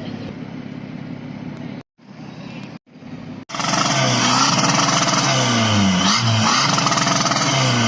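A car engine revving, its pitch climbing and falling several times in quick succession and loudest in the second half. Before that, a steadier engine drone is broken by two abrupt dropouts to silence.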